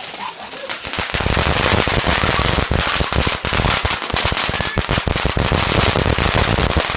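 Fireworks going off as a rapid, dense string of sharp cracks and bangs, starting about a second in and running on for several seconds.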